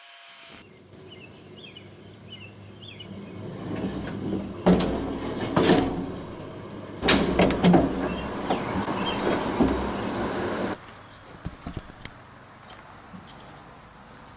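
Toyota 4Runner (3rd generation) being test-driven: a steady low rumble of engine and drivetrain with several loud knocks and rattles in the middle, cutting off suddenly a little before the end, leaving a quieter stretch with a few clicks.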